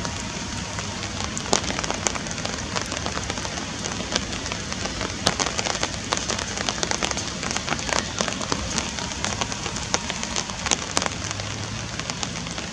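Steady rain falling on water: an even hiss with many sharp, separate drop ticks scattered through it.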